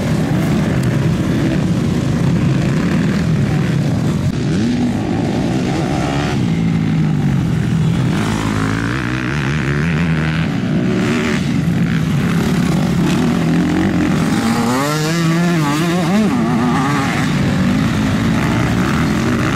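Several motocross motorcycles racing, their engines revving up and down through the gears, with one bike revving in quick rises and falls about three quarters of the way through.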